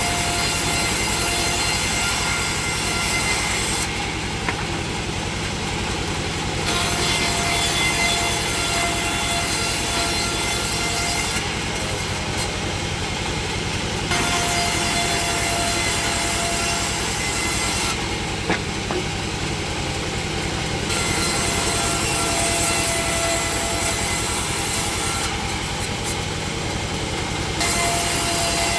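Sawmill saw running, with a steady whine. The sound switches abruptly every few seconds between a brighter, fuller phase and a duller one.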